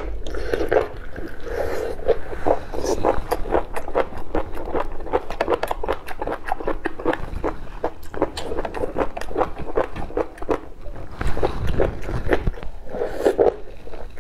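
Wet chewing and lip-smacking on rubbery cooked octopus, with a rapid run of sticky mouth clicks.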